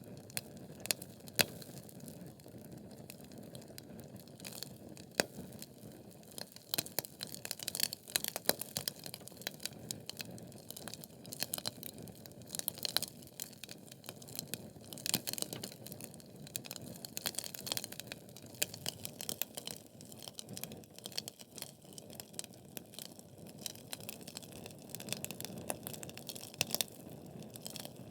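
Logs burning in a wood fireplace, crackling with many irregular sharp pops and snaps over a steady low hiss of the flames.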